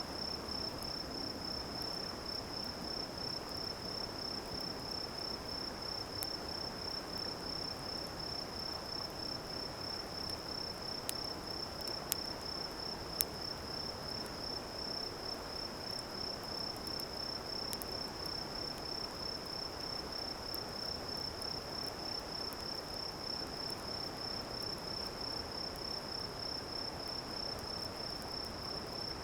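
Crickets trilling in a steady, high, rapidly pulsing song, over a constant background hiss. A few sharp crackles from the campfire come about eleven to thirteen seconds in and once more later.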